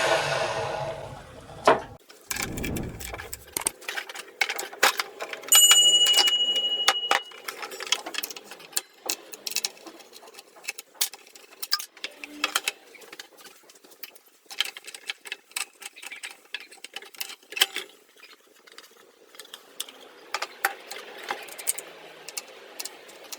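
Makita LS1040 miter saw motor coasting down, falling in pitch, at the start. It is followed by a long run of irregular sharp clicks and knocks from tools and parts being handled, with a brief high steady tone about six seconds in.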